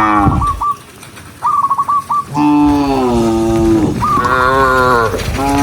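Cows mooing. One call is ending at the start, a long low moo comes about two and a half seconds in, a higher call follows about four seconds in, and another moo begins near the end. Between the moos come strings of short, quick high notes, about five a second.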